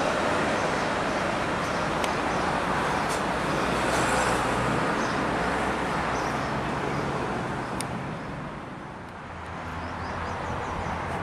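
Street traffic noise, with a vehicle passing by: the rushing sound swells about four seconds in and dies away by about nine seconds.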